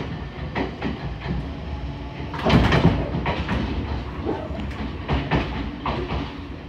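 Electric train pulling out of a station, its traction motors running as it gathers speed, with irregular clacks of the wheels over points and rail joints, loudest about two and a half seconds in.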